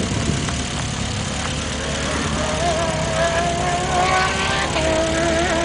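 Renault Clio V6's mid-mounted 3.0-litre V6 engine running hard under load as the car drives the hill-climb course, heard from a distance. Its note grows clear about two seconds in, wavers slightly and steps up in pitch near the end, over a steady low rumble.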